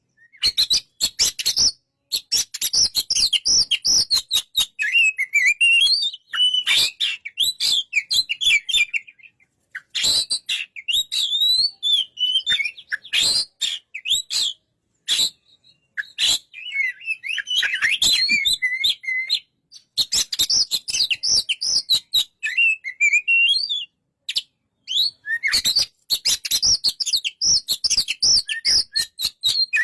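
Oriental magpie-robin (kacer) singing: rapid, varied whistled phrases mixed with harsh clicking and rattling notes, in bursts of a few seconds with brief pauses between them.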